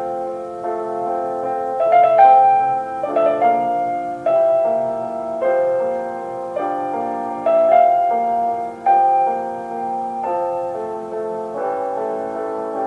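Slow, tender solo piano music in a classical style: a melody played over sustained chords, with a new note or chord about every second.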